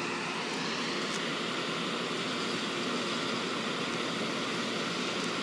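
Steady, even rushing noise of a commuter train standing at a platform, its fans and air conditioning running while it waits.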